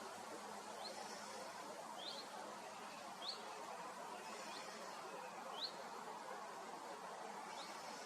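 A small bird giving short, high, rising chirps every second or two over a steady outdoor hiss.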